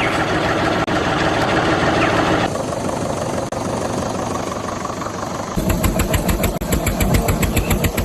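Engine running steadily, changing abruptly twice. In the last few seconds it becomes a fast, even chugging of about nine beats a second.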